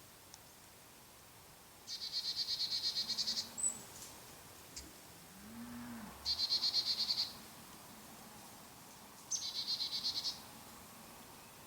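An animal's high-pitched trilling call, sung three times a few seconds apart. Each trill is a rapid string of about a dozen pulses a second and lasts just over a second.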